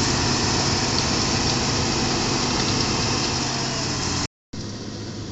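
Road cold-milling machine at work: its diesel engine runs with a steady drone under a dense grinding hiss. The sound cuts out for a moment about four seconds in and comes back quieter.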